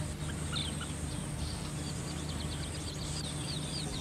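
Birds chirping over a steady background hiss: a few short high calls, then a quick run of them in the second half.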